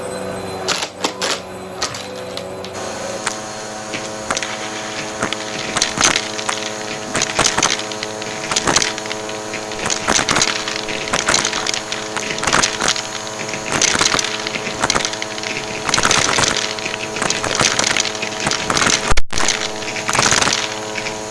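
Vacuum cleaner running with a steady motor hum while coins clatter and click as they are sucked up, the rattles coming irregularly throughout. The motor note shifts about three seconds in.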